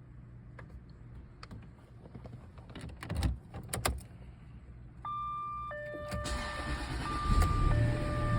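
Cold start of a car engine. Keys rattle and click in the ignition, a series of steady electronic beeps starts about five seconds in, and a second later the engine cranks and catches, running loudly over the beeps.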